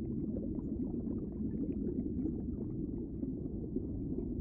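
Aquarium water bubbling and gurgling: a steady low rush of bubbles with a faint fine crackle over it.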